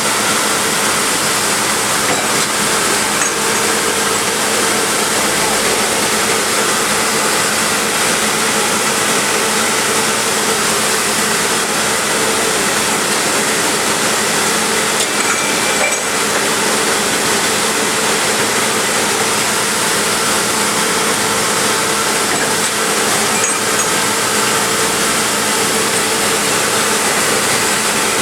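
Double disc grinder for connecting rods running in production: a steady machine noise with a constant hum underneath.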